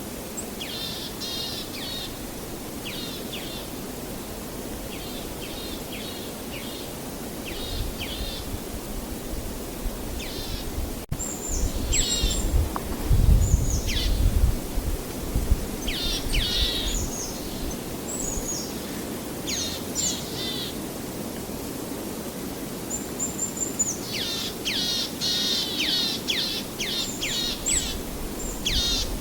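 Songbirds calling in quick runs of short, high, falling chirps, the calls crowding together near the end, over a steady rushing background. A low rumble swells briefly a little before the middle.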